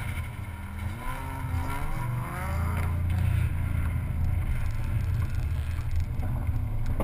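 Car engine under acceleration on an autocross run, its pitch climbing between about one and three seconds in, with heavy wind rumble buffeting the microphone of a camera mounted outside the car.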